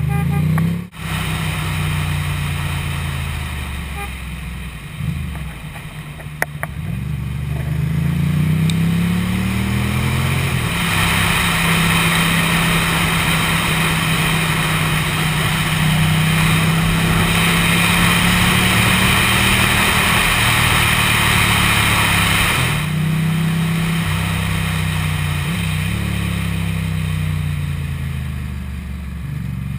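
Motorcycle engine running on the road, its pitch rising and falling with the throttle and gear changes in the first ten seconds. It then holds a steady pitch for about twelve seconds under heavy wind rush, and eases off near the end.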